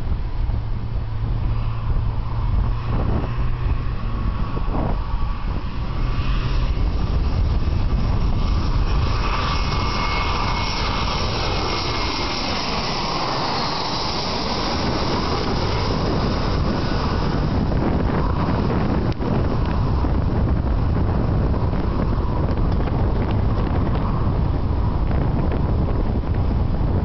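Jet airliner (Airbus A320 with IAE V2500 turbofans) passing by on its landing approach. The engine whine grows through the first half, then sweeps down in pitch as the aircraft goes past, and settles into a steady engine noise. Wind rumbles on the microphone underneath.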